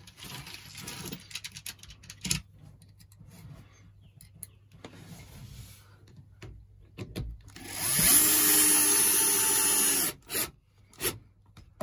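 Power drill driving a screw to fix a plastic pipe clip, spinning up about eight seconds in and running steadily for about two seconds before stopping. Handling knocks and clicks before and after.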